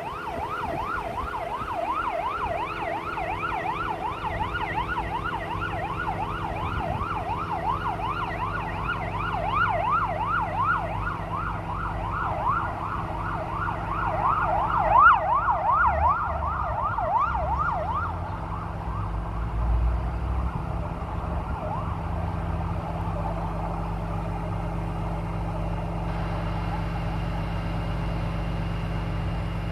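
Electronic siren yelping, a quick rising sweep repeated about three times a second, loudest about 15 seconds in and stopping about 18 seconds in, over the steady hum of a running truck engine.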